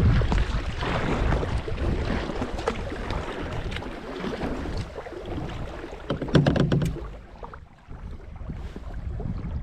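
Kayak on a river: water splashing and sloshing with wind rumbling on the microphone, and a sharp knock with a few clicks about six seconds in.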